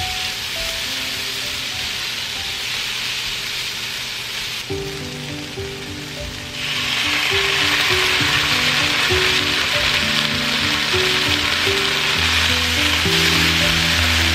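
Ground chicken, tomatoes and vegetables sizzling in a hot non-stick frying pan while a spatula stirs them. The sizzle turns louder about two-thirds of the way through, when tomato sauce goes into the hot pan.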